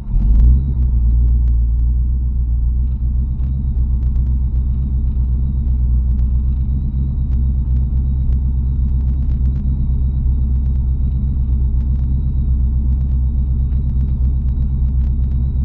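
1986 Ford Mustang's engine idling steadily with a deep, even rumble.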